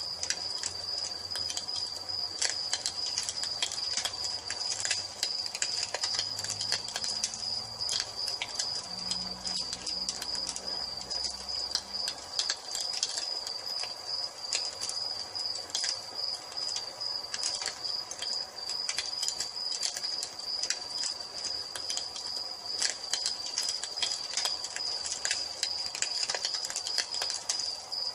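Wood fire crackling with frequent irregular pops and snaps, over a steady high-pitched trill of crickets.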